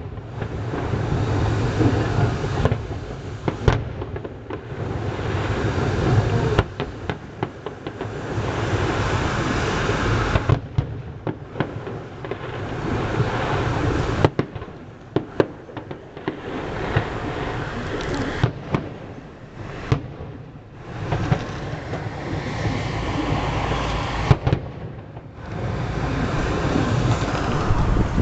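Fireworks display: many sharp bangs at irregular intervals over a continuous rumbling, crackling noise that swells and dips several times.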